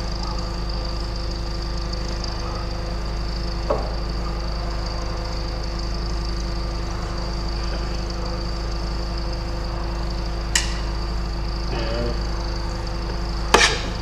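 Steady machine hum with a few fixed tones, broken by three sharp metallic clicks or knocks, the loudest near the end.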